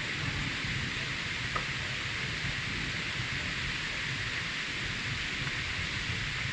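Steady rain falling hard, an even hiss over a low rumble, with a single small tap about a second and a half in.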